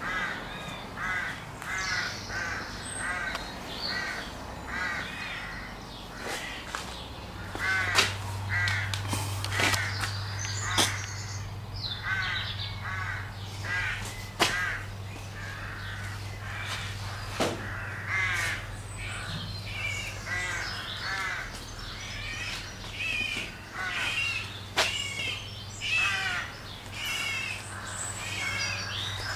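A bird calling over and over in short harsh calls, about two a second at first and then more irregularly. A steady low hum starts about seven seconds in, and there are scattered sharp knocks.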